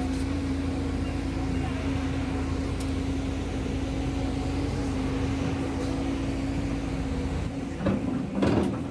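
An engine or motor running steadily with a constant hum, with two louder knocks just before the end.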